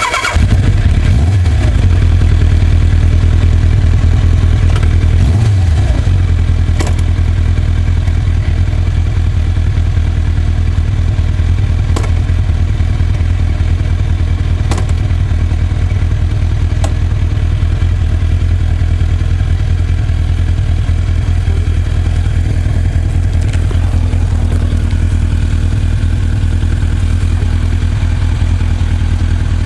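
Kawasaki GPZ1000RX's inline-four engine catching just after the start and running a little fast for the first several seconds, then settling to a steady idle. A few faint clicks come through over the idle.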